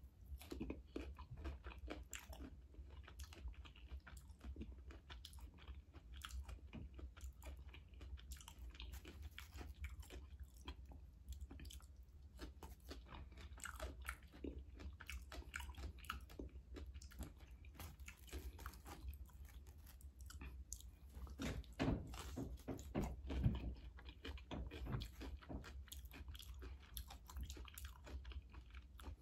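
A person chewing and crunching Flamin' Hot Cheetos-coated pickles: faint, irregular crunches and mouth sounds, with a louder stretch of crunching about three quarters of the way through.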